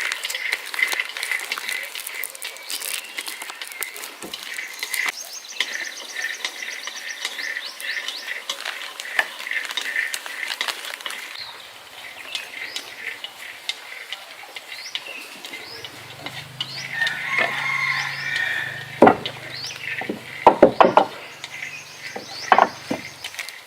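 Birds chirping repeatedly in short calls, with several sharp knocks near the end.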